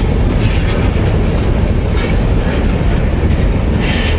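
A freight train's cars rolling steadily past close by: a continuous low rumble, with a few wheel clicks over the rail joints.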